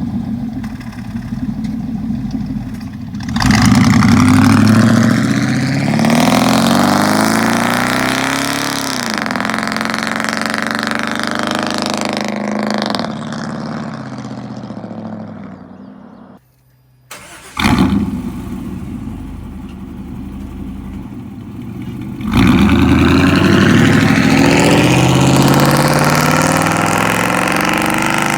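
Chevy 5.7L V8 pickup with straight-piped exhaust and no catalytic converters accelerating hard past in drive-bys. The engine note rises and then falls as it fades away, breaks off suddenly a little past halfway, and comes back loud for another pass near the end.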